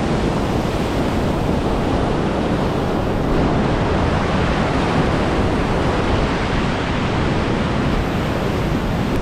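Ocean surf washing onto the beach, a steady loud rush of waves, with wind rumbling on the microphone.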